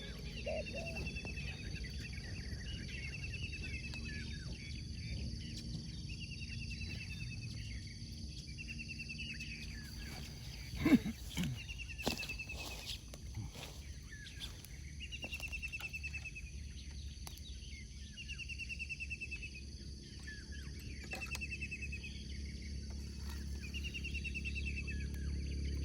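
A bird repeating a short, high, rapid trill every second or two over steady low background noise, with a single louder knock and a brief low falling sound about eleven seconds in.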